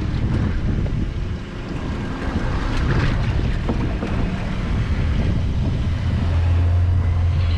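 Small fishing boat under way at sea: a low, steady engine hum under wind buffeting the microphone and rushing water, the hum swelling about six seconds in.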